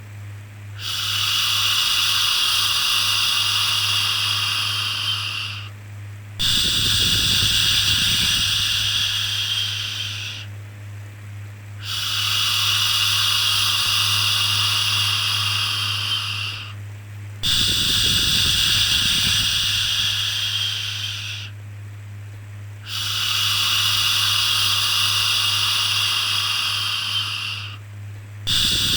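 Shushing 'shhh' sound for soothing a baby: five long hissing shushes and the start of a sixth, repeating evenly about every five and a half seconds with short pauses between them. A steady low hum runs beneath.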